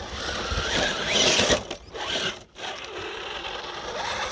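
Electric motor and drivetrain gears of a 1/10-scale Traxxas TRX-4 Sport RC crawler whirring as it drives, cutting out briefly about two seconds in.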